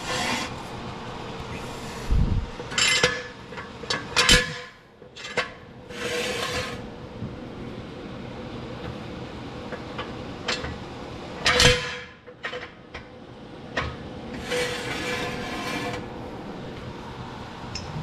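Metal jack stands being scraped into place under a truck's front end, with several rasping drags and two sharp metal clanks, one a few seconds in and one near the middle.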